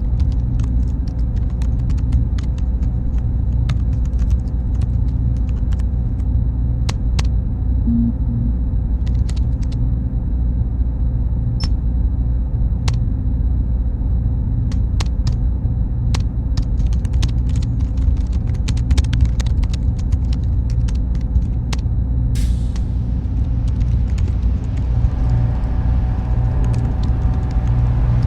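Computer server room ambience: a steady low rumble of machine fans with a faint high whine and scattered sharp clicks. The whine stops about two-thirds of the way through, and a pitched hum comes in near the end.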